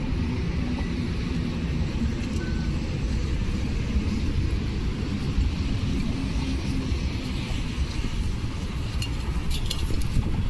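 Steady low rumble of road traffic, with a faint engine hum, and a few light clicks near the end.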